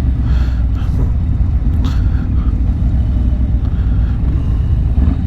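Harley-Davidson V-twin motorcycle engine running at low revs, a steady deep rumble.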